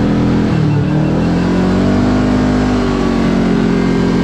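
Vehicle engine running while driving on the road, with steady road rumble. The engine pitch drops about half a second in, then climbs again as it speeds up.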